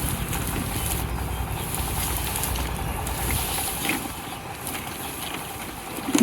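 Wind buffeting the microphone as a low rumbling noise, with faint rustling and a louder bump near the end.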